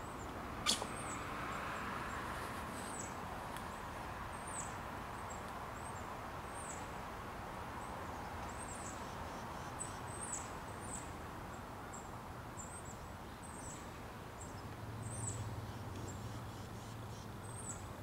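High, thin chirps from a small bird, repeating every half second to a second, over a steady background hiss. A single sharp click comes just under a second in, and a low, steady engine hum starts about three-quarters of the way through and grows louder.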